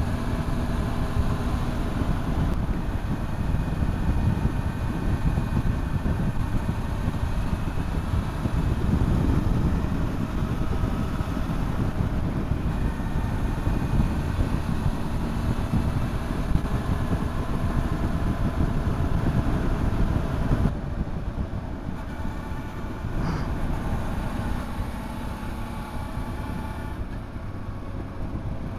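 A motorcycle riding along the road, its engine running under a steady rush of wind and road noise. About two-thirds of the way through, the sound becomes lighter and quieter as the engine note changes.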